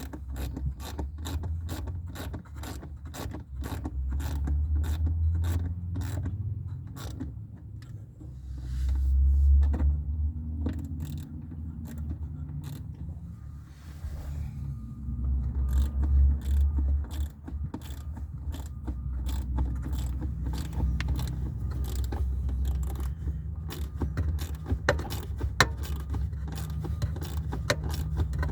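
Ratchet with an 8mm socket clicking in quick runs as screws are tightened, with a pause partway through. Under it there is a low rumble of handling noise that swells a couple of times.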